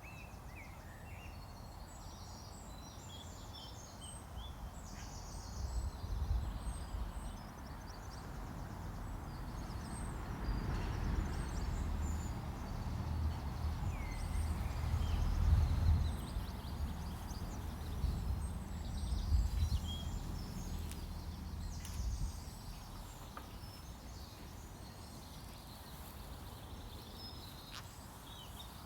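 Outdoor nature ambience: small birds chirping on and off throughout, with a low rumble that swells from about five seconds in and dies away after about twenty-two seconds.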